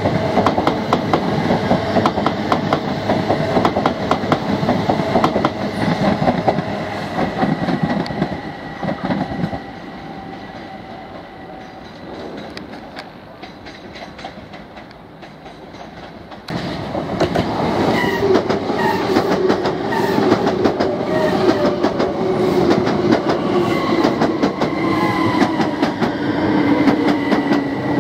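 Class 379 Electrostar electric trains passing at speed, wheels clicking over rail joints under a steady motor whine. The first train fades as it draws away, then a sudden cut brings in a second train passing close, its whine slowly falling in pitch.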